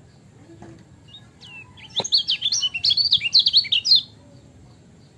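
Kecial kuning (yellow white-eye) singing: a single falling whistle, then a rapid two-second burst of high, jumping chirps.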